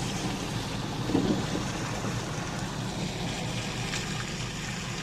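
A vehicle engine idling with a steady low hum under outdoor wind and traffic noise, with a brief louder sound about a second in.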